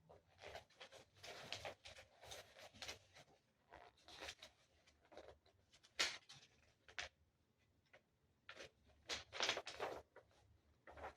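Faint rustling of a paper user manual being handled and its pages leafed through, in short irregular scrapes, with one sharper click about six seconds in.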